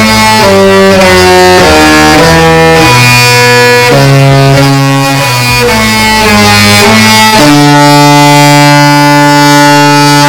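The Disney Magic's musical ship horn sounding a tune of loud held notes, stepping from note to note and ending on one long note.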